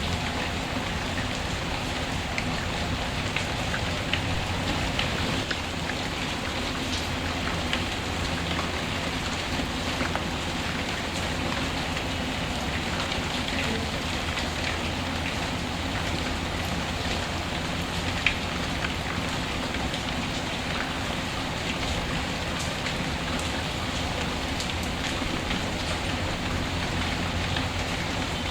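Steady rain, with the scattered small crackles and pops of a wood fire; one sharper pop about eighteen seconds in.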